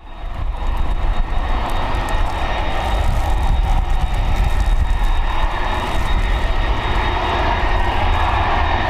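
Airbus A300 freighter's twin jet engines running loud and steady as it departs: a deep rumble and broad hiss, with a thin high whine held at a steady pitch.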